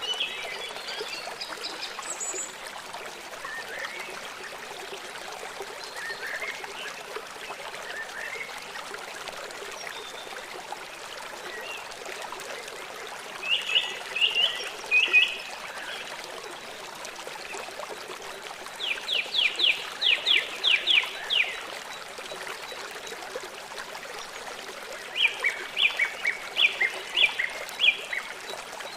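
Small birds chirping over the steady rush of running water. There are three bursts of quick repeated notes; the middle one is a fast run of about ten even chirps.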